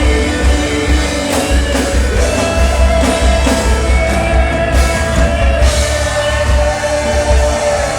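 Rock band music with electric guitar, drum kit and a sung vocal line, played over a steady bass.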